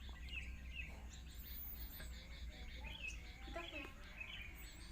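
Outdoor ambience with faint, scattered bird chirps over a steady low hum, and a short pitched call about three and a half seconds in.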